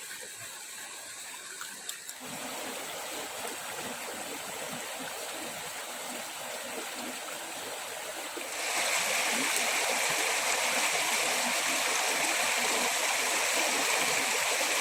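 Stream water flowing in a steady rush, stepping up in loudness about two seconds in and again about eight and a half seconds in.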